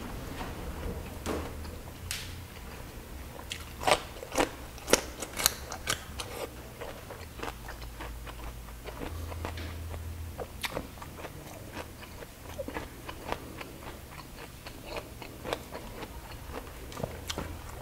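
A person chewing a full mouthful of food, with a string of wet mouth clicks that come thickest and loudest about four to six seconds in.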